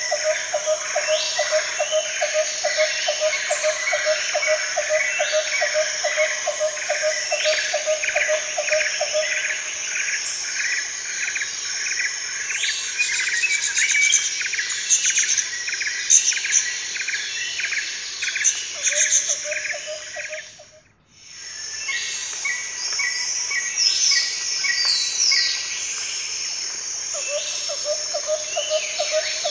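Nature soundscape of many birds calling and insects chirping, over a low call repeated evenly several times a second that stops about nine seconds in and comes back near the end. About twenty seconds in the whole soundscape briefly fades almost to silence, then returns.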